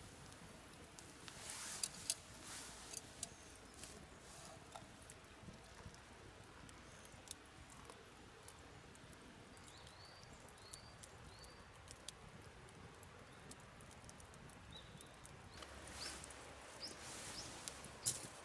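Campfire crackling faintly, with scattered sharp pops and a few louder spells. A few short, high rising chirps come about ten seconds in.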